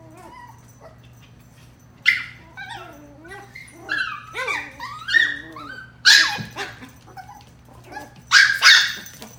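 Chihuahua puppies playing and vocalising: high yips and whines that slide up and down in pitch start about two seconds in, with the loudest sharp yaps near the middle and twice near the end.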